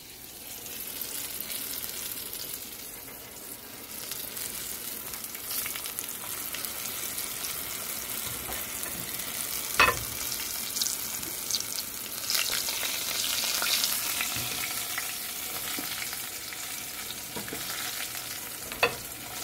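Battered breadfruit strips frying in olive oil in a cast-iron skillet: a steady sizzle, with two sharp clicks, one about ten seconds in and one near the end.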